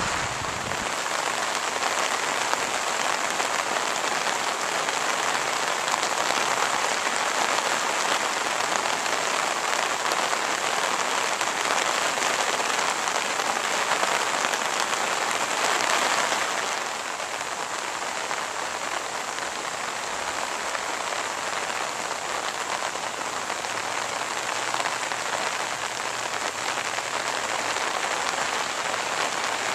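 A steady hiss of water, like heavy rain or rushing floodwater, dropping a little in level about seventeen seconds in.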